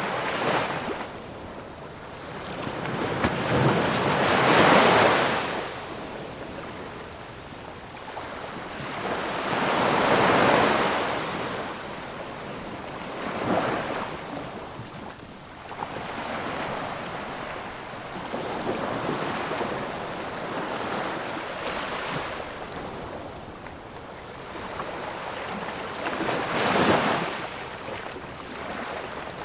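Ocean waves breaking and washing on a shore: a constant surf hiss with separate breakers that swell and fade. The largest are about four to five seconds in, around ten seconds, and near the end.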